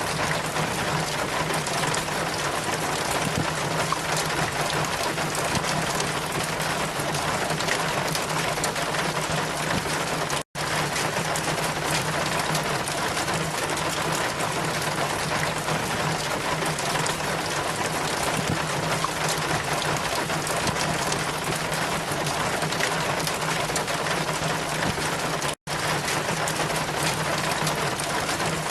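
Steady hiss of water, rain or a flowing stream, even with no swells, over a low steady hum; it drops out for an instant twice, about ten seconds in and again near the end.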